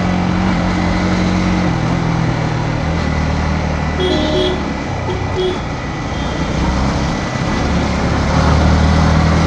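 Yamaha MT-15 V2's single-cylinder engine with its stock exhaust, heard while riding: the engine note drops in steps over the first three seconds as the bike slows, runs low, then rises again near the end as it picks up speed. Wind and road noise run under it, with a few brief high chirps about four seconds in.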